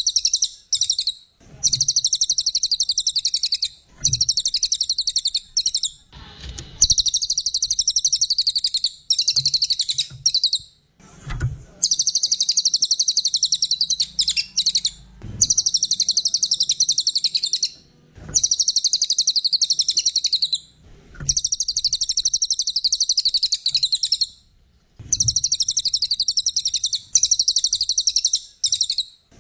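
A cililin songbird singing: rapid, high-pitched chattering phrases of one to four seconds, repeated again and again with short pauses between them.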